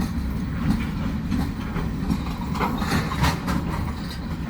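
Freight train of tank cars and hoppers rolling past: a steady low rumble of wheels on rail with irregular clicks and clanks.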